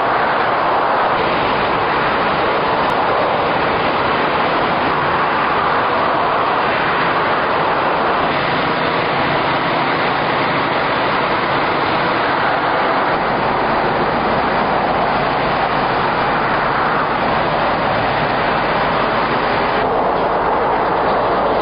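Steady roar of motorway traffic and vehicle engines, with a deeper low hum joining a little past halfway.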